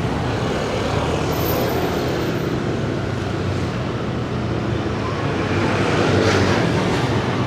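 A motorcycle running through city traffic: steady engine and road noise mixed with the traffic around it, growing a little louder about six seconds in.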